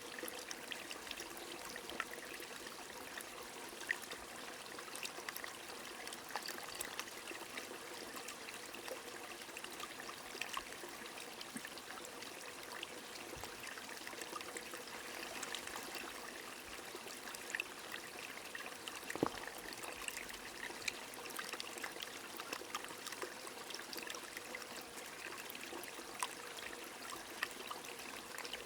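Steady rain falling together with a trickling, flowing stream: an even rush of water with many scattered drop ticks and splashes.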